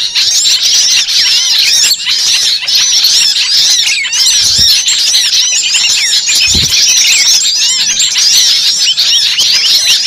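A dense chorus of many small birds chirping and twittering at once, their short calls overlapping without a break. Two brief low thumps come near the middle.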